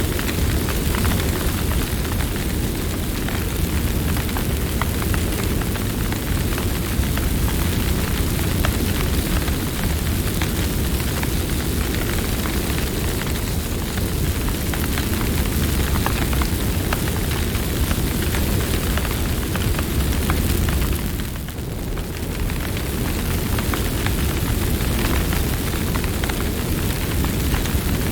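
Campfire burning, with a steady low rumble of the flames and many small crackles and pops from the burning wood. The sound dips briefly about three-quarters of the way through, then carries on as before.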